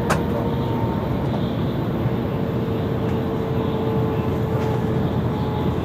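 Shinkansen train running, heard from inside the passenger car: a steady rumble of wheels and running noise with a faint steady whine. A sharp click sounds just after the start.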